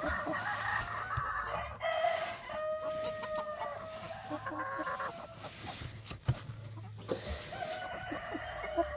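Roosters crowing, one long crow a couple of seconds in and another near the end, with chickens clucking around them. There is a single sharp knock a little after the middle.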